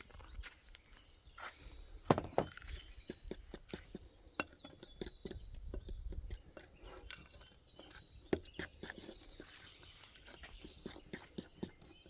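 A utensil knocking and scraping against a bowl in irregular taps as pancake batter is mixed, with a sharper knock about 2 s in and another about 8 s in.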